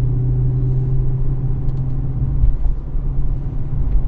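Chevrolet SS's 6.2-litre V8 idling steadily, a low even rumble heard from inside the cabin, with no revving.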